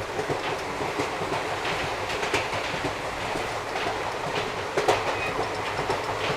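Passenger train running at speed, heard from aboard: steady rumble with the wheels clattering over rail joints in irregular knocks, a sharper knock about five seconds in.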